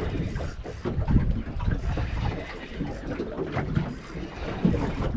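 Wind buffeting the microphone over water lapping against a small boat's hull, an uneven, gusty rumble.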